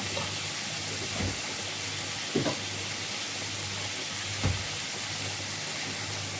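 Onion and tomato masala frying in a kadai, a steady sizzling hiss, with three short scrapes or knocks of the stirring spoon about one, two and a half and four and a half seconds in.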